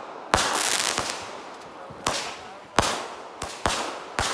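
Aerial fireworks bursting overhead: about six sharp bangs, one about half a second in and a quicker run in the second half, each trailing away as it fades.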